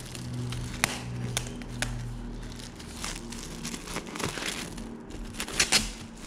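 Plastic shrink-wrap crinkling and tearing as it is peeled off a boxed iPad, in irregular crackles and snaps.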